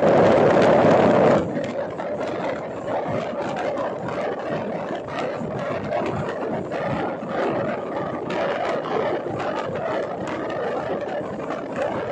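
Passenger train running along the track, heard from aboard: a loud rush of wind for about the first second and a half, then a steadier rumble of the coach with light rattling from the wheels and track.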